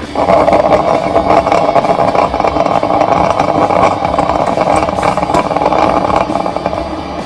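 Zojirushi EC-BD15 drip coffee maker brewing: a loud, steady hissing gurgle from its heater pushing hot water through, starting suddenly.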